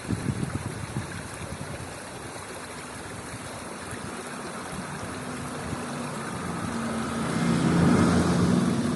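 Outdoor background noise with low wind buffeting on the microphone. From about halfway a steady low engine hum builds, loudest near the end.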